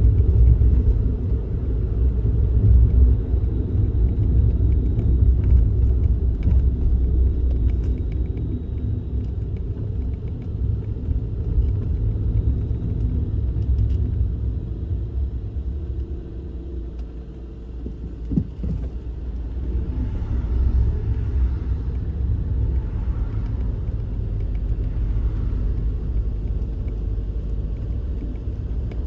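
Suzuki Kei Works car on the move: a steady low road and engine rumble that eases briefly a little past the middle.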